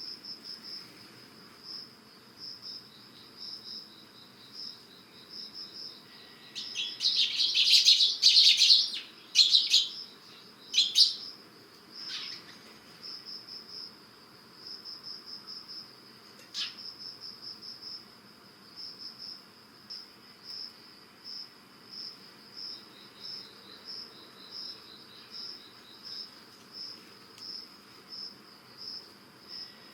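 Eurasian tree sparrows chirping in a loud cluster of calls about seven to eleven seconds in, over an autumn insect's high, steady pulsed trill that repeats a few times a second throughout. One sharp click comes about halfway through.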